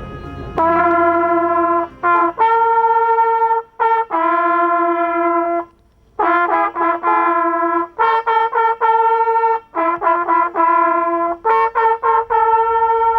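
Hunting horn blowing a signal over the display of the shot game. It plays a few pitches in phrases of quick repeated notes and long held notes, with short breaks between phrases. This is the traditional horn salute that ends the day's hunt.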